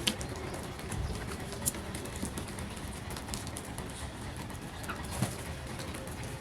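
Birds making soft sounds, with a few sharp clicks or taps over a steady low background noise.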